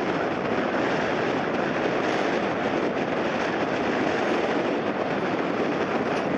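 Airliner jet engines running as a loud, steady roar, mixed with gusty wind.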